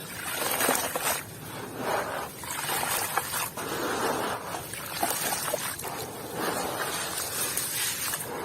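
Dry, dusty clumps crumbling apart with a gritty, crackly rustle and small clicks, in swells that come and go about every second.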